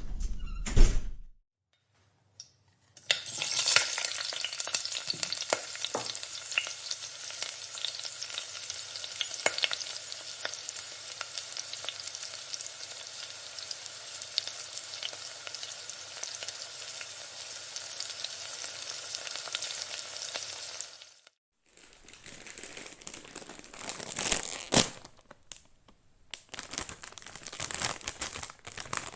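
Food sizzling in a frying pan: a dense, steady crackle of tiny pops that lasts about eighteen seconds and then stops abruptly. A different, irregular rustling crackle with a few louder clicks follows near the end.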